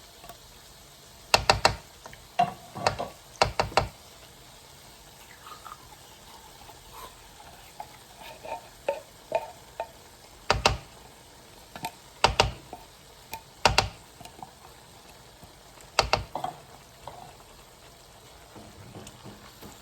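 A spoon stirring a pot of thick chicken pot pie filling, with sharp knocks against the pot: a few close together near the start, then single knocks every second or two, and faint scraping between them.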